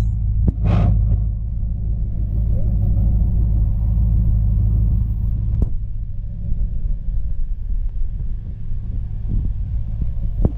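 Duramax 6.6 L turbo-diesel V8 running at a steady idle on its first start after a rebuild, with a couple of sharp clicks.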